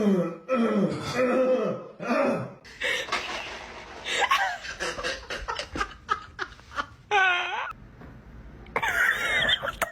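People laughing in a run of short, irregular outbursts.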